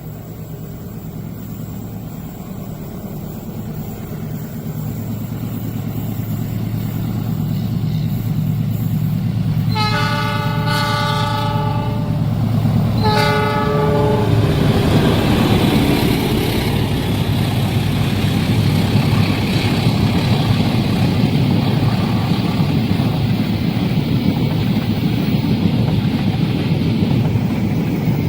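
A train approaching, its locomotive engine hum growing steadily louder, then sounding its horn twice, a long blast about ten seconds in and a shorter one just after. The train then passes close by with continuous wheel and rail rumble and rattle.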